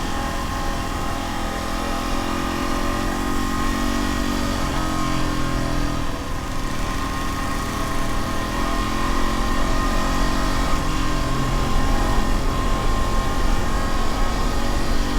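Dual-sport dirt bike engine running steadily while riding, its pitch rising and falling a little with the throttle.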